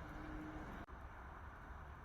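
Steady low outdoor background rumble, with a faint steady hum in the first half-second and a brief dropout just under a second in.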